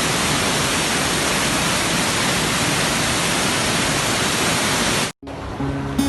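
A waterfall's rushing water, a loud, steady, even noise that cuts off abruptly about five seconds in. Soft music with held low notes begins just before the end.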